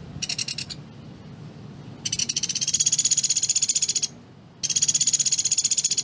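Pelatuk beras woodpecker calling in rapid, high-pitched rattling trills: a short burst right at the start, then two long trills of about two seconds each, separated by a half-second pause.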